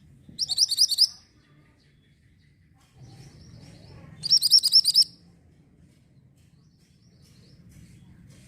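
Orange mantenan songbird singing: two short bursts of rapid, high, repeated chirping notes, each under a second long, about four seconds apart, with fainter chirps between them.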